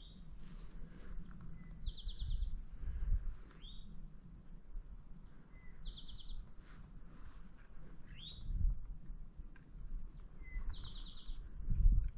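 A songbird sings the same short phrase three times, about every four to five seconds: two quick notes, then a short buzzy trill. Rising chirps come between the phrases. Low rumbles and thuds run underneath and are loudest near the end.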